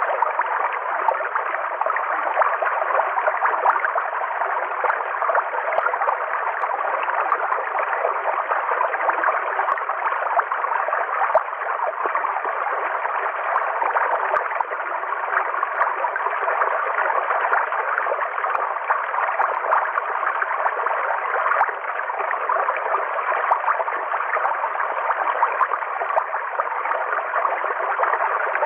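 A river flowing: a steady, unbroken rush of water that stays even throughout.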